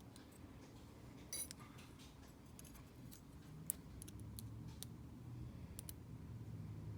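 Small pin tumbler cabinet lock and metal lock tools being handled: scattered light metallic clicks and ticks, with a short ringing click about a second and a half in and a sharper click near the middle.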